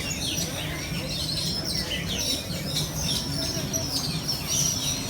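Many birds chirping together: a dense chorus of short, quick chirps and whistles that slide up and down in pitch.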